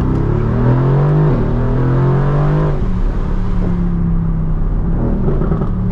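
Mercedes-AMG GT R's twin-turbo V8 pulling hard under acceleration, its pitch rising, stepping down once about a second in, then rising again. Just under three seconds in the throttle eases off and the engine settles to a steady, lower cruising note.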